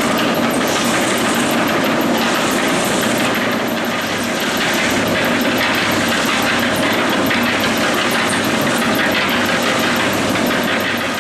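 Electric drum concrete mixer running steadily with an even mechanical noise.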